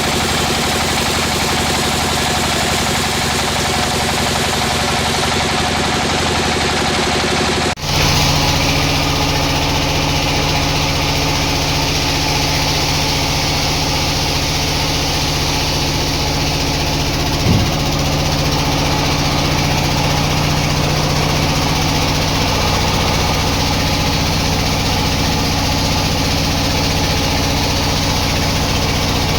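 Sawmill machinery running steadily, with a steady engine-like hum. The sound breaks off and resumes slightly changed about eight seconds in, and there is a single brief knock later on.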